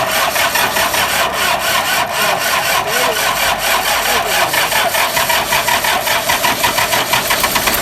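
Rebuilt diesel tractor engine running with a fast, rhythmic clatter that quickens toward the end.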